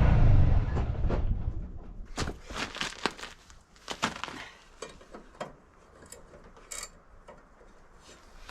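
An engine running loudly stops within the first second, followed by a scatter of sharp clicks and knocks.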